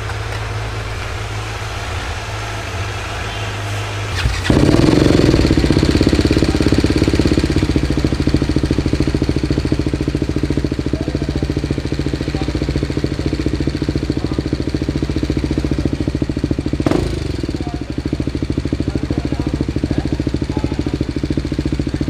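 A steady low hum, then about four seconds in a single-cylinder BMW G310R motorcycle engine with an aftermarket exhaust starts up and idles steadily. A brief sharp sound comes near the end.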